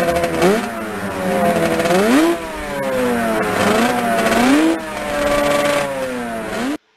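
Racing motorcycle engine revving, its pitch climbing and falling several times, then cutting off suddenly near the end.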